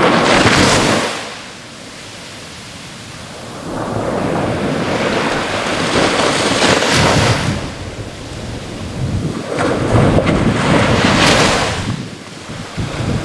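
Ocean waves breaking on a shore, rising and falling in three surges. Each crash swells into a rushing wash, then eases off before the next wave comes in.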